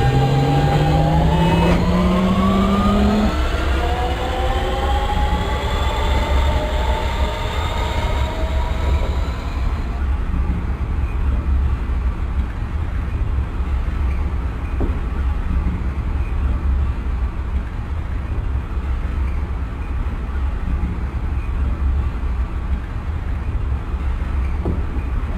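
Lisbon Metro ML90 train under way. Several traction-motor whines rise in pitch together as the train gathers speed over roughly the first ten seconds, then fade. After that the train runs on with a steady low rumble of wheels on rail.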